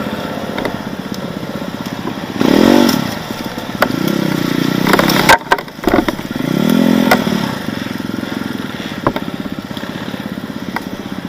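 Off-road enduro motorcycle engine chugging along at low revs, revved up and back down twice, with a sharp knock about five seconds in as the bike works through rough forest ground.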